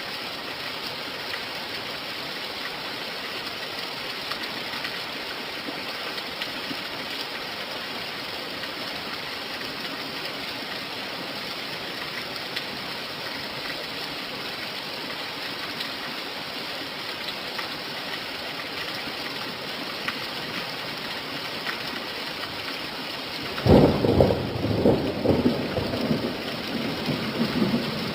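Steady rain falling, a hiss with no let-up. Near the end a sudden loud rumble of thunder breaks in and rolls on, crackling.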